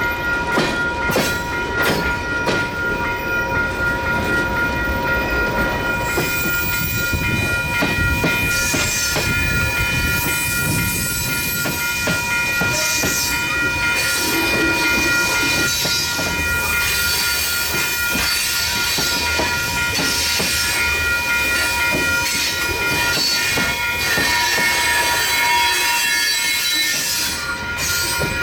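Freight train cars rolling by, wheels clicking over the rail joints, with a steady high squeal of wheels on the rails held throughout.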